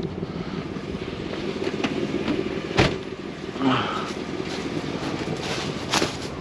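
A vehicle's engine idling steadily, with a sharp knock about three seconds in and another near the end.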